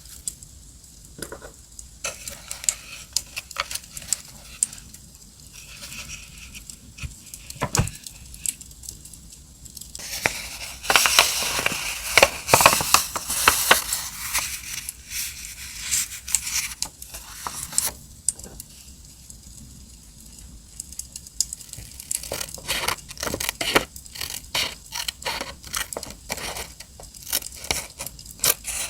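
Paper and stickers being handled close up: scattered clicks and scrapes, a dense stretch of rustling and crinkling in the middle, and a quick run of sharp clicks near the end, over a crackling campfire.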